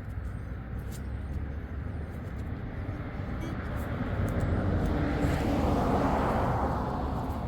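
A vehicle passing by: a steady low rumble with a broad rushing noise that swells to its loudest about six seconds in and then fades.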